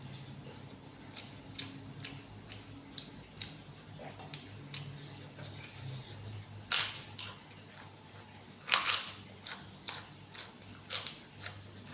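A person eating instant noodles close to the microphone: a run of short wet mouth clicks and smacks from chewing, with two louder slurps about seven and nine seconds in.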